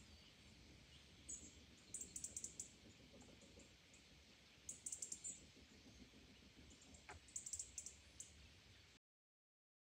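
Faint small-bird chirps in quick high-pitched runs, three short bursts a few seconds apart, over a quiet low hiss; the sound cuts off near the end.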